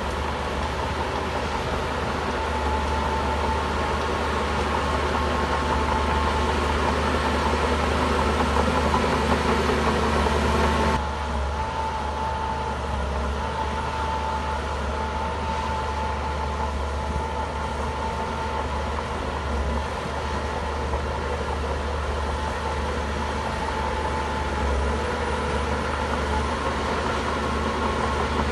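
Shantui bulldozer's diesel engine running steadily. About eleven seconds in, the sound drops abruptly in level and changes in tone.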